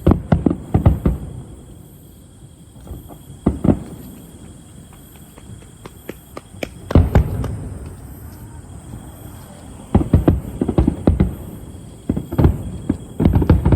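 Aerial fireworks going off: sharp bangs each trailing into a rumbling echo, a quick series at the start, a single bang at about three and a half seconds, a heavy group around seven seconds, and rapid volleys from about ten seconds on.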